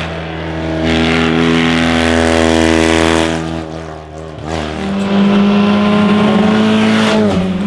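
Classic racing car engine running hard under load, its revs climbing slowly. The engine note falls away about four seconds in, then comes back at high, steady revs, with a short dip in pitch near the end.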